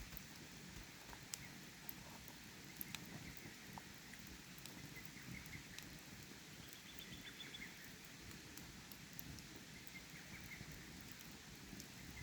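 Faint steady rush of flowing stream water with occasional sharp crackles from a wood campfire, and soft high chirps now and then.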